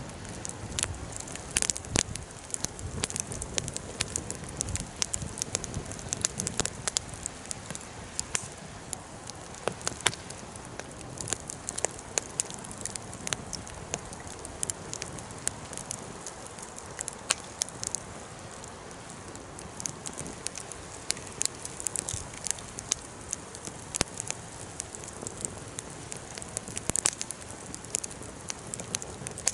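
Bonfire crackling, with many irregular sharp pops over a steady low hiss of burning.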